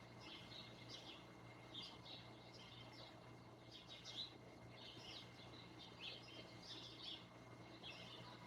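Small birds chirping faintly: many short, high chirps in quick, irregular succession, several birds overlapping, over a low steady hum.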